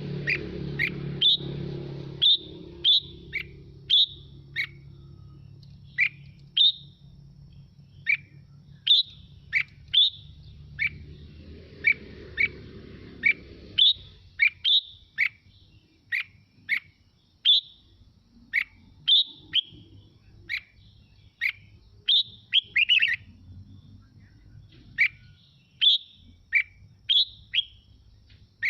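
Red-whiskered bulbul singing: short, sharp whistled notes repeated about once or twice a second.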